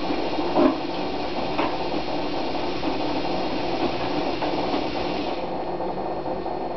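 Washing machine running: a steady mechanical drone with rubbing, scraping noise, and a couple of short knocks in the first second.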